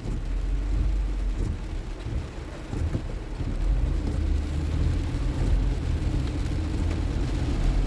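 Car driving in heavy rain, heard from inside the cabin: a steady low engine and tyre rumble with the hiss of rain and wet road.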